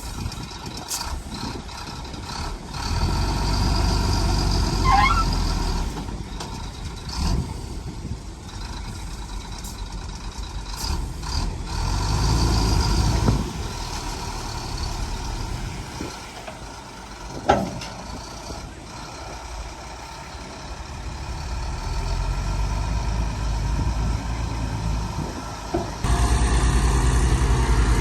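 Heavy diesel earthmoving machinery (bulldozer and dump trucks) working. The engine note rises and falls with load, with brief squeals and a short sharp burst about two-thirds through. It steps up to a louder steady drone near the end.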